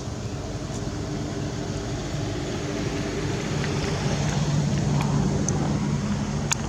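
A motor vehicle engine running with a steady low hum, swelling louder around the middle as if passing by, with a sharp click near the end.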